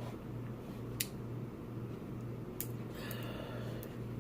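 Crab shells being handled and cracked while eating: a couple of sharp clicks over a steady low hum.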